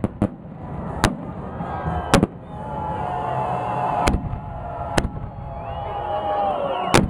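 Festive fireworks salute: about six sharp bangs of shells bursting, spaced roughly a second apart, over a continuous background rumble.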